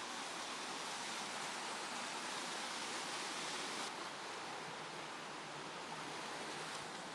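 Steady rushing of a mountain stream's cascading water, a dense hiss with a slight abrupt change in tone about four seconds in.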